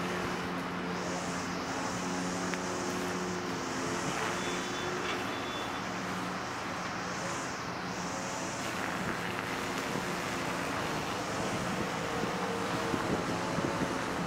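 Street ambience: a steady wash of traffic noise, with the low hum of a running vehicle engine.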